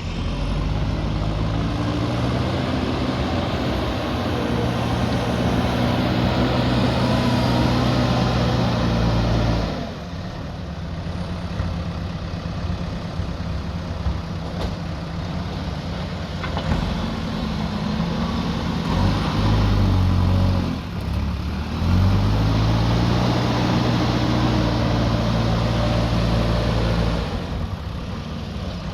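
Diesel engine of a heavy earthmoving machine working, held at high revs under load for long stretches. It drops back toward idle about a third of the way in, gives a short rise, then revs up again for most of the last third.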